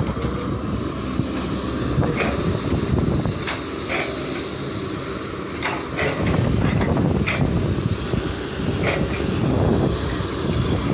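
Caterpillar 320D2 hydraulic excavator at work: its diesel engine running steadily under load, with short sharp knocks every second or so.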